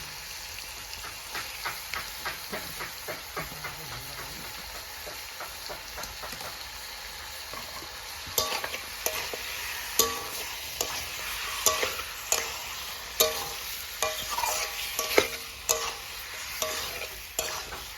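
Chicken gravy sizzling in a pot while a spoon stirs it, with the spoon knocking and scraping against the pot. The clinks come more often and louder from about halfway through.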